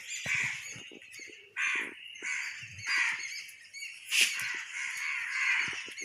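Harsh, cawing bird calls, about five in a row, a second or so apart.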